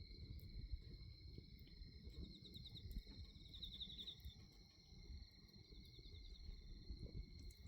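Faint crickets chirping steadily on an autumn night, with a quick pulsing trill about two to four seconds in. Under them runs a low rumble of a bonfire burning, with a few faint crackles.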